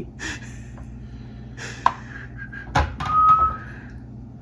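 Sharp knocks and clinks, three or four in all, as the metal rotisserie spit and its forks are handled while a chicken is fixed onto them. Near the end there is a short, steady, high whistle-like tone, and a low hum runs underneath.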